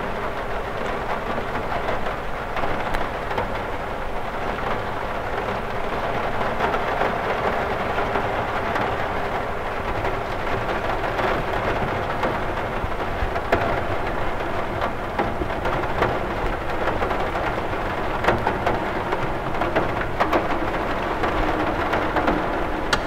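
Steady rain on a cathedral window: a dense, even hiss of rain with many small drop taps, a few of them sharper and louder.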